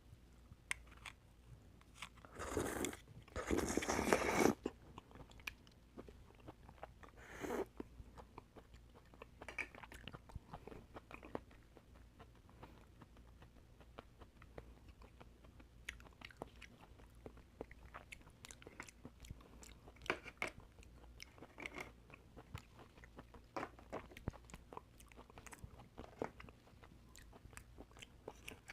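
Close-miked eating of oysters: wet chewing with many small mouth clicks and smacks. Two loud noisy bursts come about three and four seconds in, and a shorter one near eight seconds.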